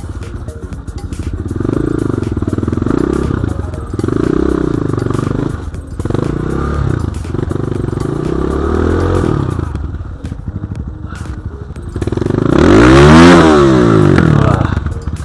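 BSE J1 enduro dirt bike engine running under throttle, its revs rising and falling every second or two as it works through the terrain. Near the end it revs up hard to a loud peak and drops back down.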